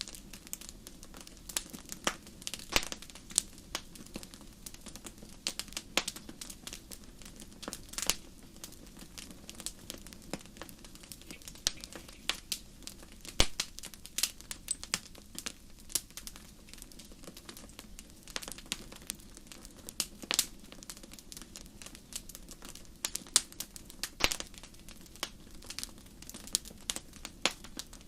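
Wood fire burning in a fireplace: irregular sharp crackles and pops, several a second and some louder than others, over a low steady hum.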